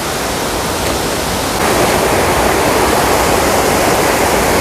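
Rushing water of a mountain stream or waterfall, a steady, full hiss that gets louder about a second and a half in.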